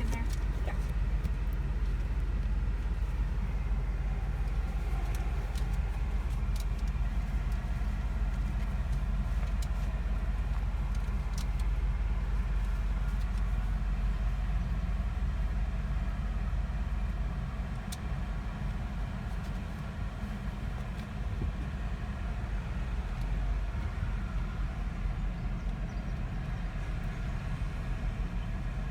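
Car engine idling with a steady low rumble as the car creeps forward into an automatic car wash, with a few faint clicks.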